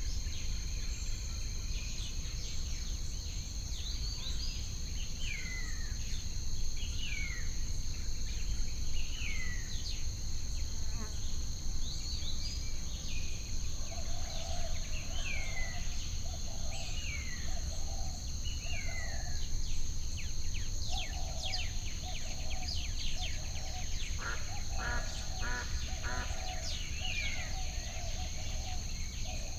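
Nature ambience of insects and birds: a steady high insect trill under frequent short, falling bird chirps. From about halfway through there is a run of short, lower calls at about one and a half a second. All of it sits over a low steady rumble.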